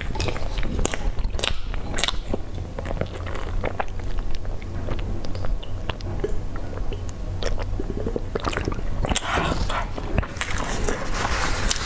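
Close-miked mouth sounds of a person chewing food: many small irregular clicks and smacks. A sip from a mug comes around the middle, over a steady low hum.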